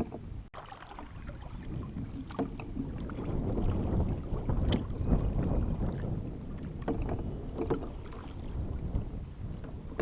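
Kayak on the water: paddling and water sounds with occasional sharp knocks, over a steady low rumble of wind on the microphone.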